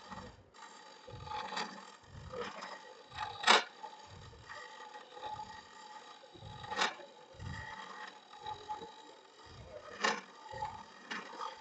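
Wood lathe spinning a bird's mouth vase blank while a Hunter hollowing tool cuts inside it. A low rumble pulses about once a second, and there are three sharp knocks about three seconds apart.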